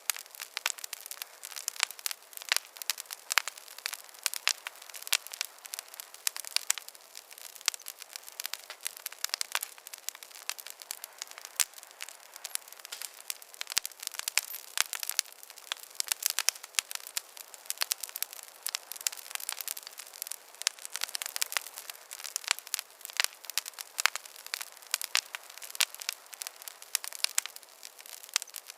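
Wood campfire crackling, with dense irregular pops and snaps over a faint hiss.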